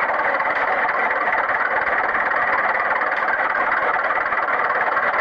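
Small electric motor of a DIY toy tractor running steadily with a buzzing, rattling texture.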